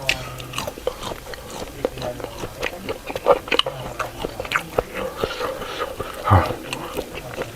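Close-up chewing and biting of food, with many short wet mouth clicks and smacks.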